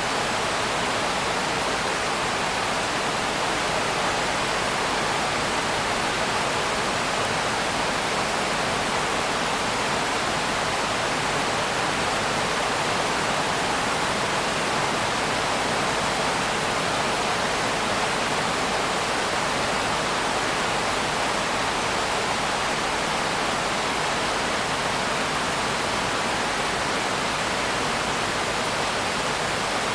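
Rain falling as a steady, even hiss with no breaks or individual drops standing out.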